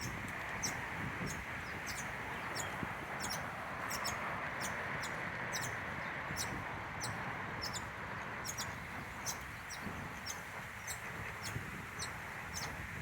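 Bird chirping over and over, short high chirps about two a second, over a steady background hiss.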